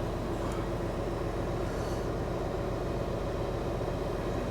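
Semi truck's diesel engine idling steadily, a low, even hum heard from inside the cab.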